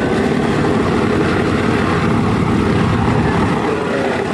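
Piston-engined propeller aircraft flying past, the engines running loud and steady.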